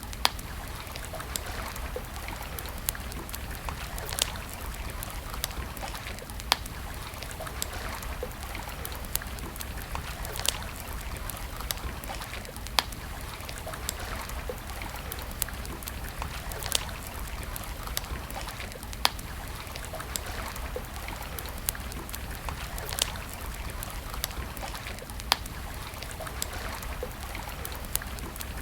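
Campfire crackling, with sharp pops every second or two over the steady rush of running river water.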